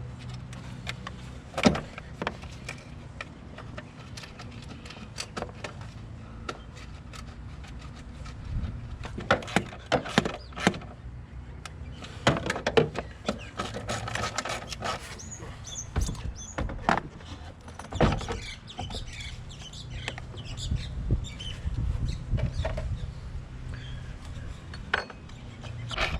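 Irregular clicks, knocks and clanks of hand work on a car during a gear-shift cable repair, with a few brief high squeaks.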